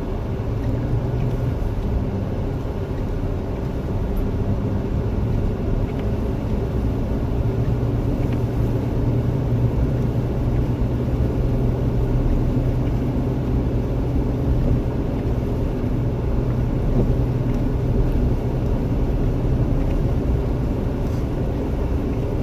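Steady in-cabin drone of a Jeep Wrangler driving on snow, an engine hum over road and tyre noise from its 33-inch mud-terrain tyres.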